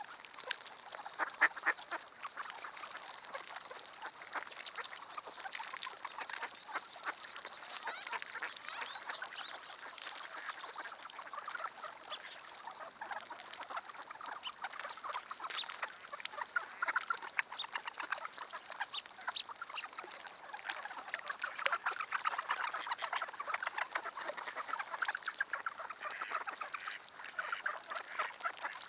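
A large mixed flock of ducks quacking and calling all at once, a dense, unbroken chatter of many overlapping short calls.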